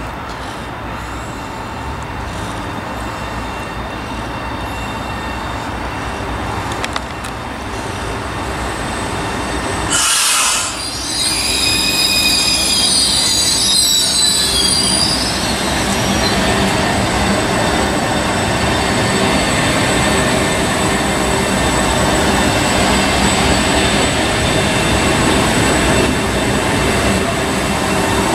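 Train approaching and passing close by. The rolling noise builds to a sudden loud rush about ten seconds in. High-pitched wheel squeal follows for a few seconds, then the steady loud rolling of the passing cars.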